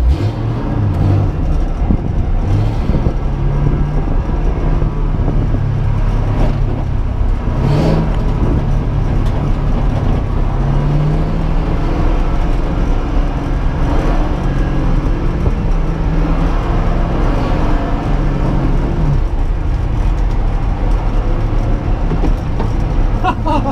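Ford Mustang's engine heard from inside the cabin, revving up and dropping back several times as the car is driven hard on dirt, over a steady rush of tyre and road noise.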